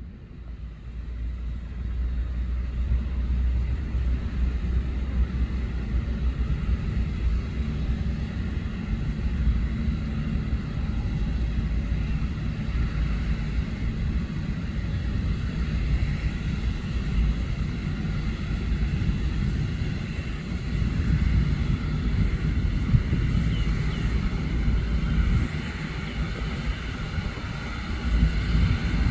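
Jet engines of a Boeing 777-300 running at takeoff power: a steady low rumble that sets in about a second in, with higher engine tones growing louder over the last few seconds.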